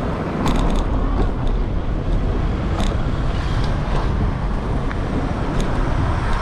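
Wind rumbling on the microphone of a moving bicycle, over the steady noise of street traffic, with a few short clicks.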